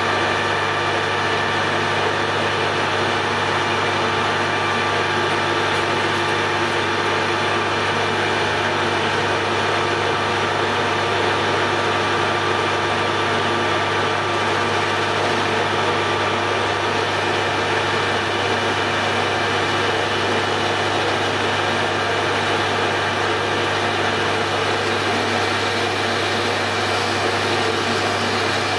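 Hare and Forbes AL335 metal lathe running steadily under power, a constant machine whine over a low hum, while a small boring bar opens out a bore in steel stock.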